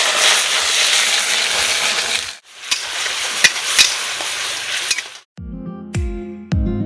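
Food frying in hot oil, sizzling steadily in two stretches with a brief break about two and a half seconds in, and a few sharp pops in the second. Music with a regular beat begins about five seconds in.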